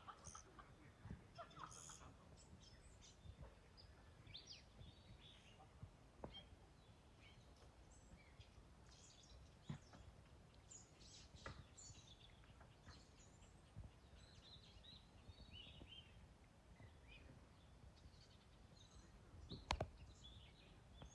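Faint birds chirping and calling, in short scattered phrases, over quiet outdoor background. A few sharp clicks cut in, the loudest near the end.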